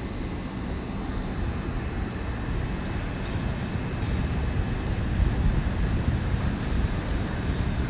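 A pair of coupled class 387 electric multiple units running in, heard as a low steady rumble that swells a little about halfway through.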